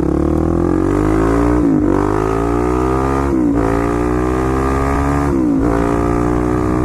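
Suzuki DRZ400's single-cylinder four-stroke engine through an MRD SSW aftermarket exhaust, accelerating hard through the gears: the note climbs in pitch in each gear and drops briefly at three upshifts.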